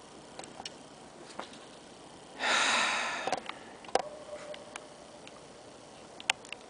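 A person's loud breath near the microphone, a short rushing exhale about two and a half seconds in, with a few small clicks and a knock after it.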